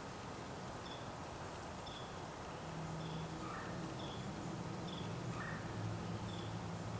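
A small bird chirping, short high calls about once a second with an occasional lower call. A low steady hum comes in a few seconds in.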